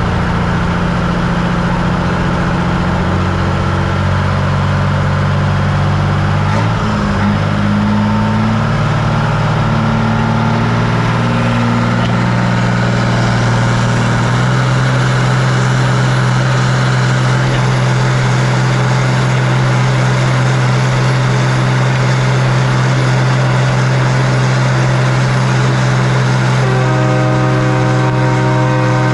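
Ford 6.0 Power Stroke V8 turbodiesel pickup engine running loud under load, its engine speed shifting several times with a sharp break about seven seconds in, then holding at one steady speed for the second half.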